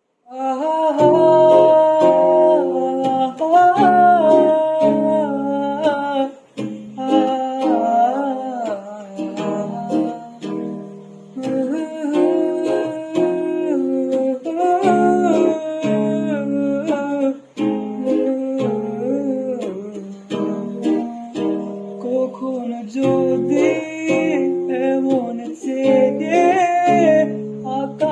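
Song intro on a plucked acoustic guitar, with a wordless hummed vocal melody over the chords.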